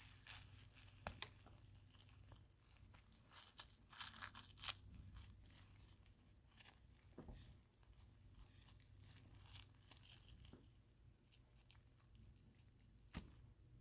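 Near silence with faint, scattered clicks and rustles from dissection work: instruments and hands cutting and separating the sartorius muscle from the underlying tissue of a cat's thigh.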